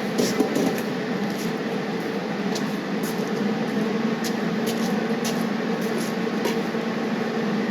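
Welding on a steel clamp: a steady hiss and hum with scattered short crackles.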